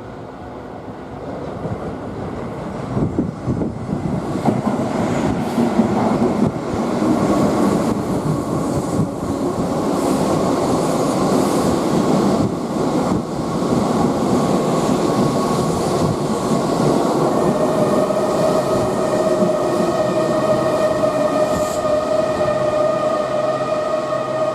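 A Keihan electric train coming into the station, its rumble building over the first few seconds into a steady run of wheels and cars along the platform. About two-thirds of the way through, a steady high-pitched whine in several tones rises over the rumble and holds.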